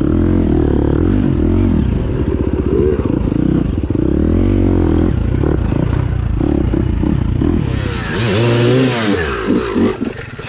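Dirt bike engine being ridden hard, its pitch repeatedly rising and falling with the throttle. A burst of hissing noise comes in about eight seconds in.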